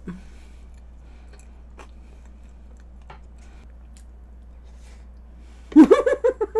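Soft mouth sounds and a few faint clicks of a woman chewing and biting chocolate layer cake. Near the end her voice cuts in loud, in a quick run of short pulses.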